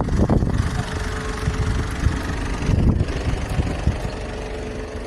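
Truck engine running steadily at a low rumble, with a faint steady hum over it.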